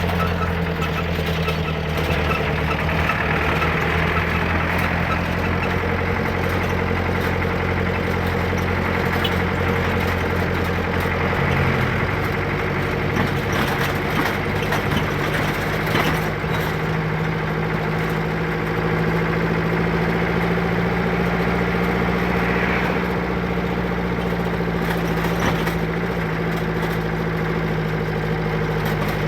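A vehicle engine idling steadily, its low hum changing pitch slightly about twelve seconds in.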